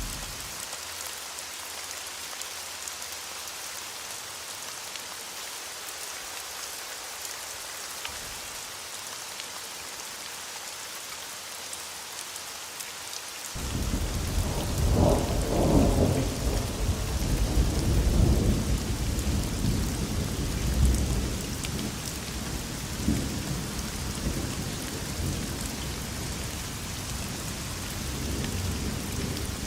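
Steady rain with a roll of thunder that breaks in suddenly about halfway through. The thunder is loudest for a few seconds, then rumbles on more softly under the rain.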